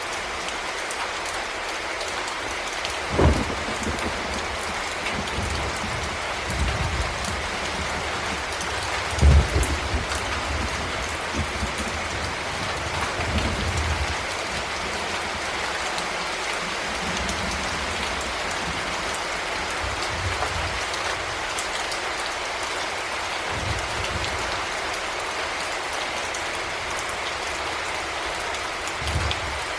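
Heavy rain falling steadily in a dense, even hiss, with a few short low thuds underneath, the loudest about three and nine seconds in.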